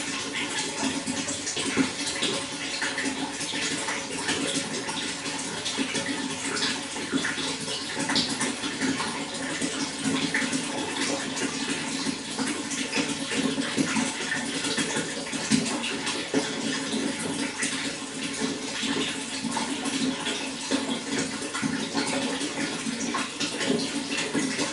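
Running water flowing steadily, with a constant dense patter of small splashes.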